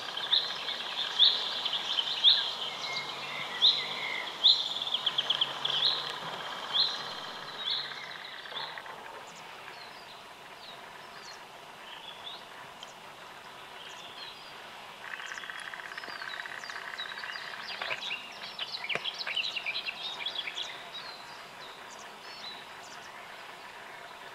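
Wild birds calling over an outdoor background hiss: a series of short, high, rising notes about once a second for the first eight seconds, then scattered thin chirps that grow busiest between about 17 and 21 seconds in.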